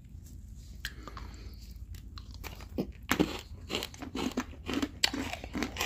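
Two people biting into and chewing chocolate-coated Doña Pepa biscuits topped with sprinkle balls. Faint at first, then steady, crisp crunching from about halfway.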